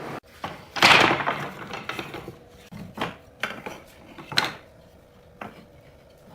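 Wood and hand tools knocking and clattering: a loud clatter about a second in, then a few separate sharp knocks.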